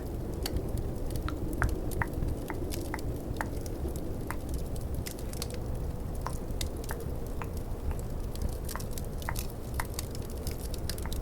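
Steady low snowstorm-and-fireplace ambience with many scattered sharp clicks and crackles, irregularly spaced, a couple each second.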